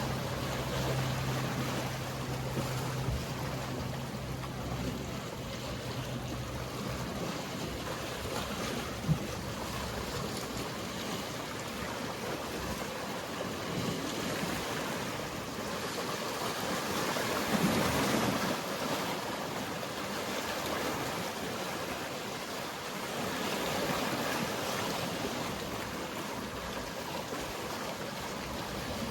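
Mediterranean sea waves washing with a steady hiss, a wave swelling louder about eighteen seconds in. A boat engine's low hum runs underneath and fades out about seven seconds in, and a single sharp click comes near nine seconds.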